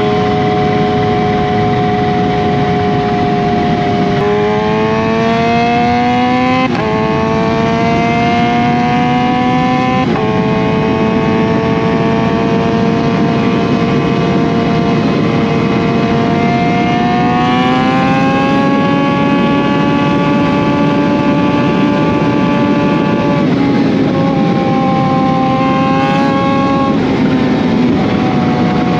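2020 Kawasaki Z H2's supercharged inline-four running through an SC Project CRT exhaust with Akrapovic headers, pulling up through the gears with quick upshifts about seven and ten seconds in. It holds a steady speed, climbs again briefly, then the revs drop when the throttle is closed.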